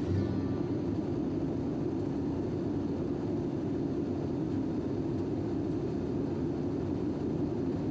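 Steady low rumble of a vehicle in motion, an even noise without pitch that holds level throughout.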